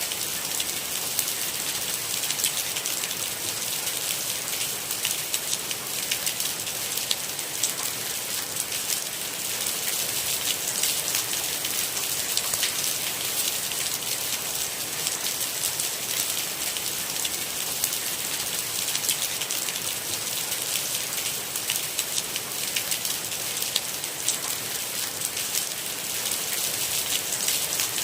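Steady rain hitting a surface: a dense, even patter of countless drops over a constant hiss.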